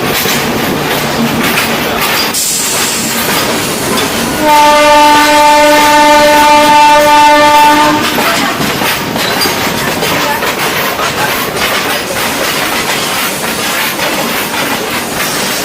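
Indian Railways express train running, wheels clattering over the rail joints, with one steady horn blast about three and a half seconds long starting some four seconds in.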